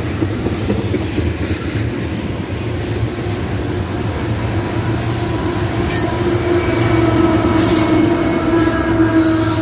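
Loaded tank-car freight train rolling past at close range, a continuous rumble of wheels on rail. Near the end a CSX diesel locomotive passes close by, and a steady hum with higher whining tones grows louder.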